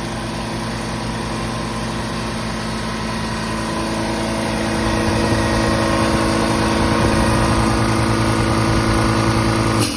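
Husky 60-gallon air compressor running, its electric motor and oil-lubricated piston pump making a steady mechanical hum that grows a little louder about halfway through.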